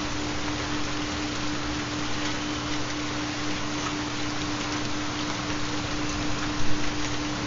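Steady rain recording, a dense even patter, with a constant low pure tone underneath: the carrier of a 4 Hz theta binaural beat. There is a brief louder bump near the end.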